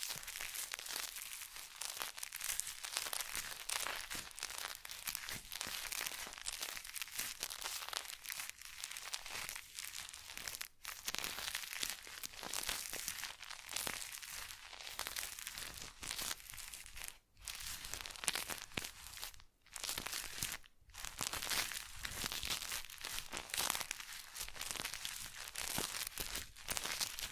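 Close-miked ASMR trigger sounds of a mock facial treatment: a continuous crinkling, scratchy rustle with a few brief pauses.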